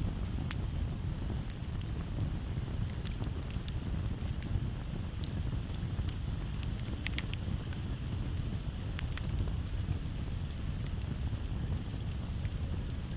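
Campfire crackling, with frequent sharp pops over a low steady rumble of flames and breeze. A steady high chirring of crickets runs underneath.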